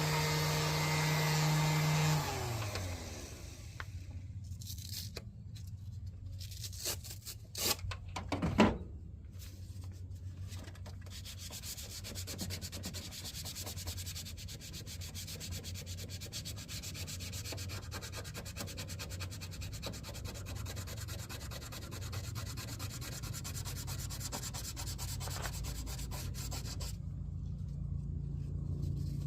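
A power tool's motor winds down about two seconds in. Steady sanding during auto body work follows, a continuous rough rubbing, with a couple of brief louder knocks about a third of the way through.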